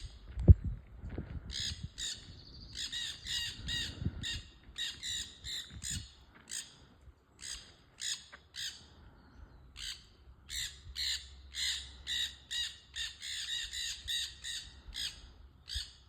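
A flock of parrots squawking, with many short harsh calls in quick succession and overlapping. A low thump about half a second in is the loudest sound.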